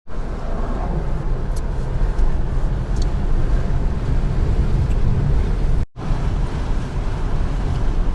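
Steady low rumble of a car driving, with road and engine noise heard from inside the cabin. It drops out for a moment near six seconds.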